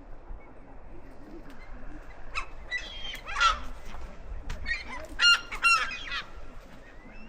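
Gulls calling: several rounds of short, repeated calls, loudest about halfway through.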